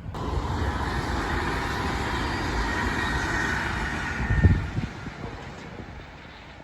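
A train passing close by: a steady rushing rumble with a faint whine that starts abruptly, gives a heavy low thump about four and a half seconds in, then fades away.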